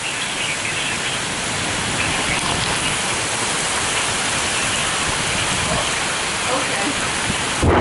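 Heavy rain pouring in a severe thunderstorm, a steady hiss that grows slightly louder. Right at the end a close thunderclap breaks in suddenly.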